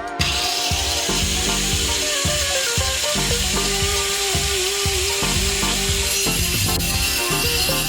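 Angle grinder running, a steady hiss that starts right away, over background music with a steady beat and melody.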